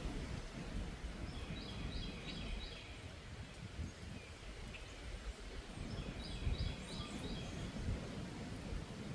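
Wind buffeting the microphone with a low rumble, while a bird calls twice, each time a quick run of four short high notes.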